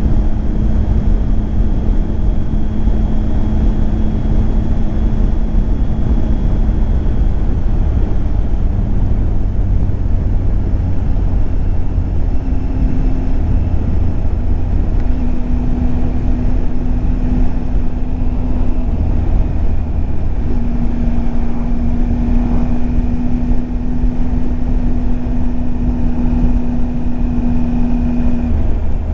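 Triumph Tiger 800 XCX's three-cylinder engine running under way, with heavy wind rush and road rumble. The engine note holds steady for long stretches and steps to a new pitch a few times as the revs change.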